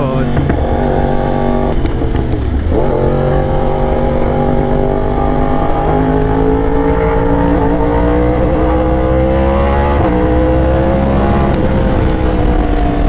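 Yamaha R1's crossplane inline-four engine under way on the road: the pitch drops at a gear change about two seconds in, climbs slowly for several seconds, then dips again about ten seconds in.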